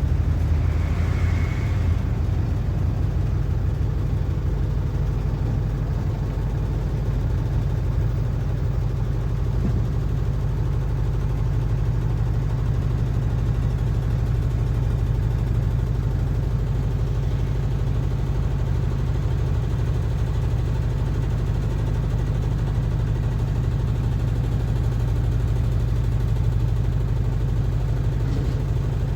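Engine of a PAZ-4234-05 bus running steadily under way, heard from inside the cabin as a constant low drone with the rumble of the ride. A short faint higher sound comes about a second in.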